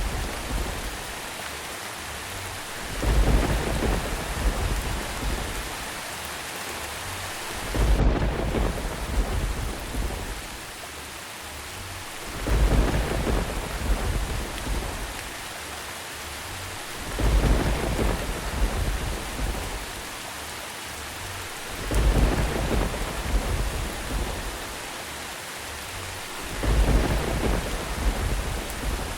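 Steady rain hiss with a low rumble of thunder about every four to five seconds, six times, each swelling quickly and then fading over a couple of seconds.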